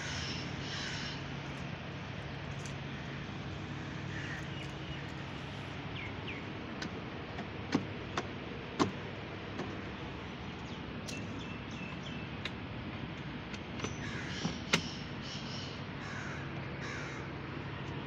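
Groups of harsh bird calls at the start, about four seconds in and toward the end, with several sharp clicks, the loudest a little before halfway and again near the end, over a low steady hum.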